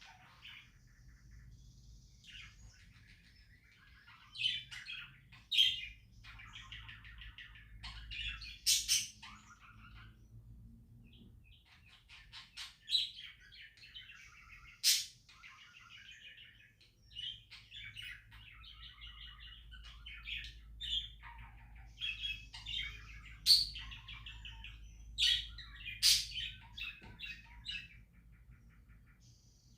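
Pet budgerigars chirping and chattering in bursts, with several sharp, louder calls scattered through.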